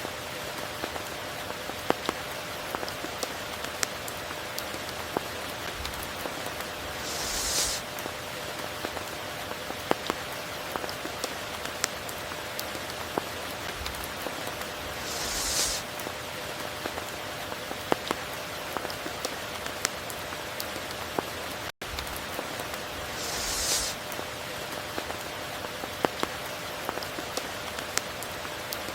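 Steady tropical rain falling, with sharp drops ticking close by and a brief hissing swell about every eight seconds. A momentary dropout occurs about two-thirds of the way through.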